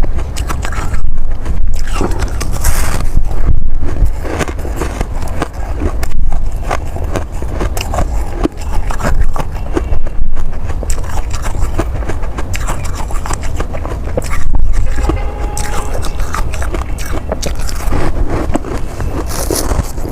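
Close-up crunching of ice being bitten and chewed: a dense crackle of small cracks, with a louder crunching bite every few seconds.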